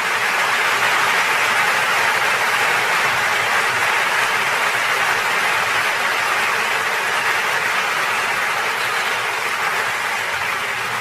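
Large crowd applauding: many hands clapping densely and steadily, with no single claps standing out.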